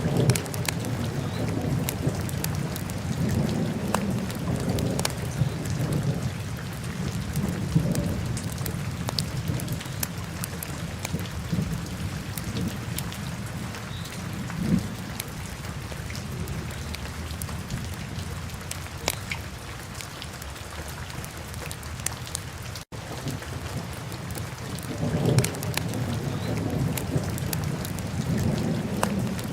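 Wood fire in a fireplace, crackling with sharp scattered pops over a low rumbling roar. The rumble swells during the first few seconds and again near the end, and the sound cuts out for an instant about 23 seconds in.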